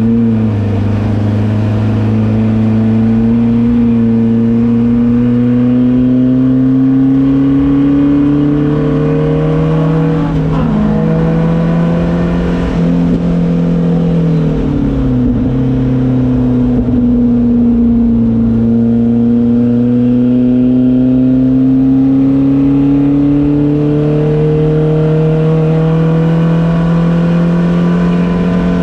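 Volvo 240 race car's engine heard from inside the car at speed on track. Its pitch climbs slowly through the revs, drops sharply about ten seconds in and again about fifteen seconds in as the driver shifts or lifts, then climbs again toward the end.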